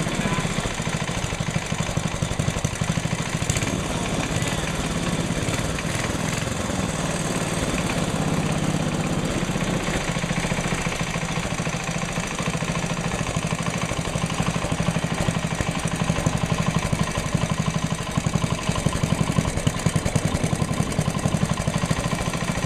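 Tecumseh HH120 single-cylinder engine running steadily on a bench test after a rebuild, firing in a fast even beat. It has a knock the builders hear but cannot place.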